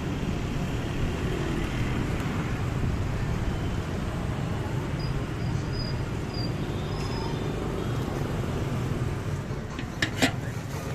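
Steady low rumble of street traffic, with a couple of sharp clicks near the end.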